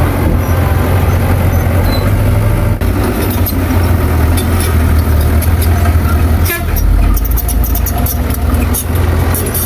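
Heavy diesel earthmoving machinery running steadily under load, with scattered sharp metallic clicks and clanks over the engine drone.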